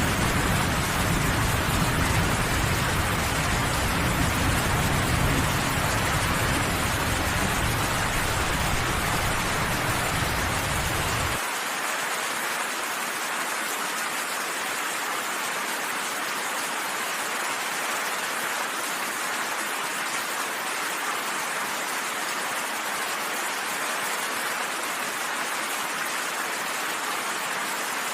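Steady rain falling, an even hiss. A low rumble under the rain cuts off suddenly about eleven seconds in, leaving only the rain.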